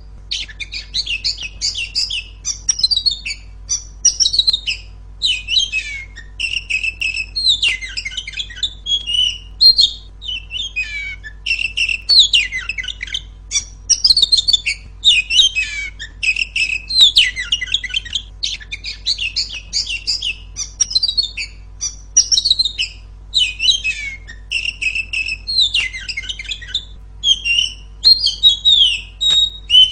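Female Oriental magpie-robin (kacer) singing loudly: a continuous run of varied, rapid chirps, whistles and harsher notes in short phrases with brief gaps between them.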